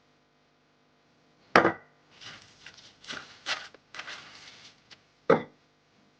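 A kitchen knife chopping sweet potato on a wooden cutting board: a sharp chop about one and a half seconds in and another near the end, with scraping and rustling between.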